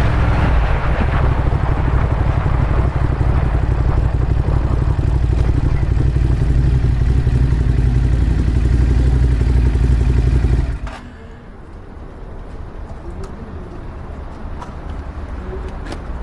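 Ducati Monster 821's L-twin engine running steadily, then switched off abruptly about eleven seconds in, leaving quieter background noise with a few faint clicks.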